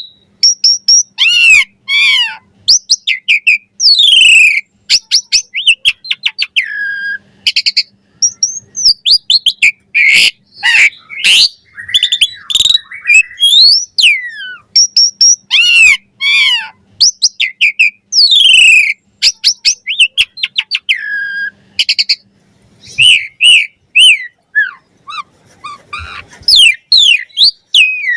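Asian pied starling (jalak suren) singing in a long, varied run of whistles, rising and falling glides and rapid clicking notes, almost without pause.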